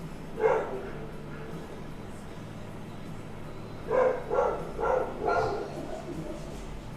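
Dog barking: one bark about half a second in, then four quick barks about four seconds in, over a faint steady low hum.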